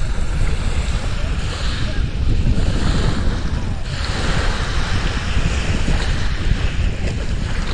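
Small Black Sea waves breaking and washing up the beach, their hiss swelling twice, under a steady low rumble of wind on the microphone.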